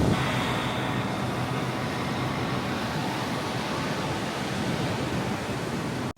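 Steady outdoor background noise, a continuous even rumble and hiss with no clear single source, cutting off abruptly near the end.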